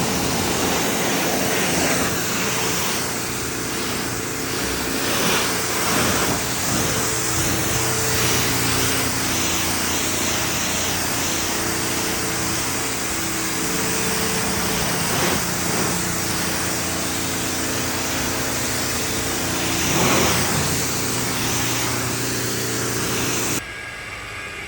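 Pressure washer running while the truck is washed: a steady motor hum under a continuous hiss of water spray, cutting off suddenly near the end.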